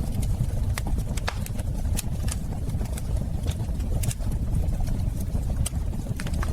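Wood fire crackling in a fireplace: a steady low rumble of flames with irregular sharp snaps and pops.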